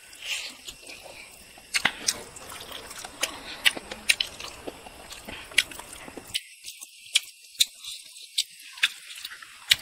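Close-miked eating of chicken heads and rice by hand: chewing and mouth noises, with irregular sharp clicks and smacks about one or two a second.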